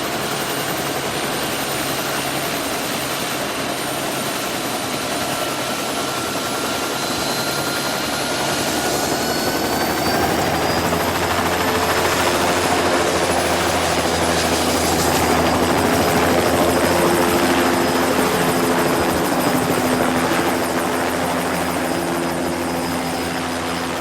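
A steady engine drone with a faint high whine that slowly shifts in pitch; it grows louder about ten seconds in, peaks past the middle, and eases off near the end.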